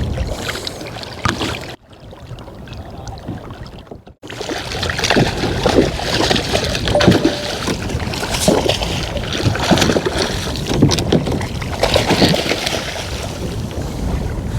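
Water sloshing and splashing around a kayak, with wind on the microphone and irregular knocks from handling. The sound drops out briefly twice in the first few seconds.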